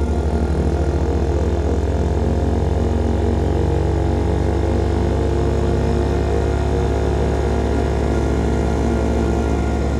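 Small single-cylinder motorcycle engine of a CFMOTO Papio SS running at a steady cruise, its note coming through a KO Lightning aftermarket slip-on exhaust.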